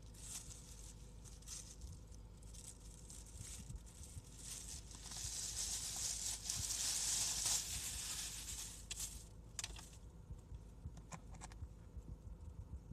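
Rustling and crinkling of packaging, louder for a few seconds around the middle, with a few sharp clicks near the end.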